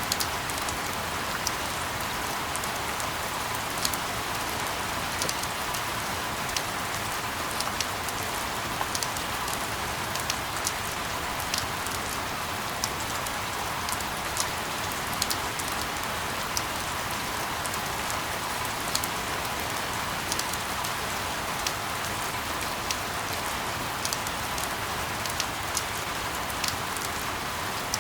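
Steady rain falling, a constant hiss with scattered sharper drops ticking through it.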